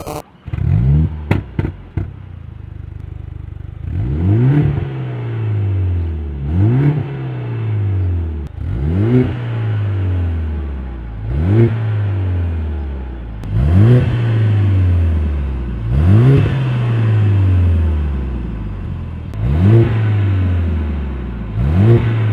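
Mercedes-AMG A45 S's turbocharged 2.0-litre four-cylinder engine through an Armytrix aftermarket exhaust, revved repeatedly while standing. The first flare and a few sharp cracks come in the opening seconds. After that come about eight throttle blips, one every two seconds or so, each rising quickly and falling back slowly to idle.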